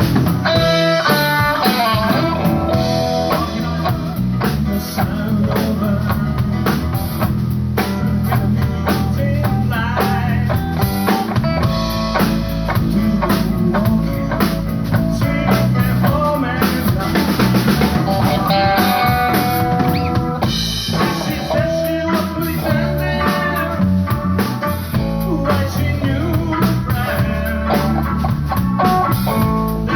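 A live band playing a blues-rock number, with electric guitar, bass and a drum kit keeping a steady beat with rimshots.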